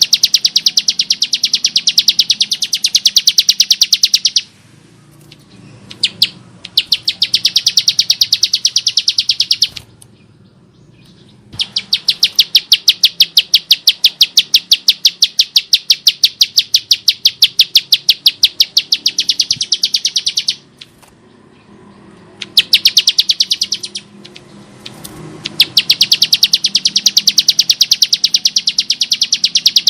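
Bar-winged prinia (ciblek sawah) singing a harsh, rapid run of repeated sharp chip notes, about eight a second, in long bursts broken by short pauses.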